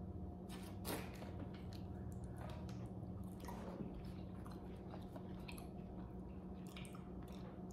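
Close-up chewing of French fries dipped in sauce: faint, scattered wet mouth clicks and chewing over a steady low hum.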